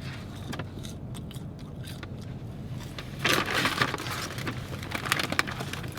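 Paper fast-food bag and wrappers rustling and crinkling as food is taken out, with a longer burst of rustling about halfway through.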